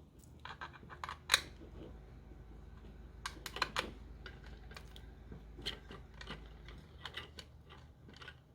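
Scattered small clicks and knocks of helping-hand clip arms being handled and fitted onto a soldering station stand. The sharpest click comes about a second in, with a cluster of clicks near the middle.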